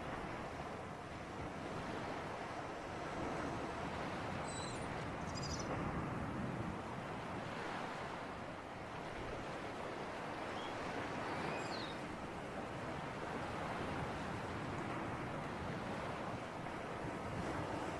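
Sea surf washing in and out with a breeze, a steady rushing wash that swells and eases slowly. A few faint high chirps come through it twice.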